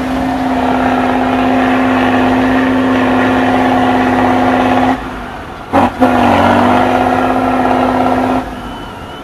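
Trial truck's engine running hard at steady high revs, easing off about five seconds in. Two brief loud bursts follow, then it pulls hard again before dropping away and fading near the end.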